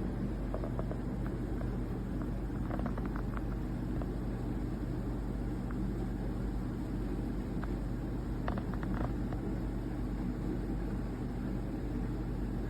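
Portable front-load tumble dryer running: a steady motor hum with a few light, irregular clicks from inside the drum.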